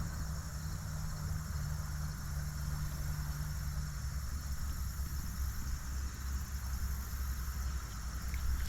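Low engine rumble of a passing truck, its steady hum fading about four seconds in, over a steady high trilling of insects.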